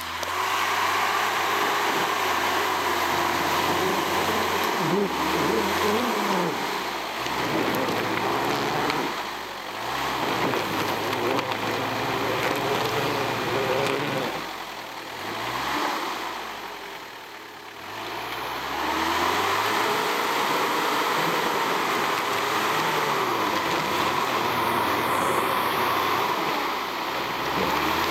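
Off-road 4x4's engine revving up and down under load as it works through deep snow, easing off three times midway before running steadily again.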